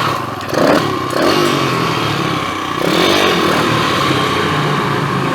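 PitPro 140 pit bike's single-cylinder four-stroke engine running at low revs, its pitch swelling briefly about half a second in and again around three seconds.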